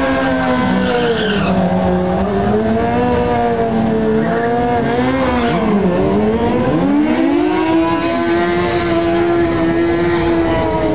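Motorcycle engine running hard, its pitch rising and falling with the throttle. There is a sharp drop and a climb back about six seconds in, and the engine then holds a steadier high note.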